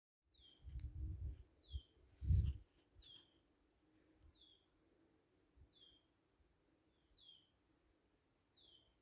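A bird calling in a regular repeating pattern, a short high steady note followed by a lower down-slurred note, about once every second and a half. Low rumbling thuds in the first few seconds, the loudest about two and a half seconds in.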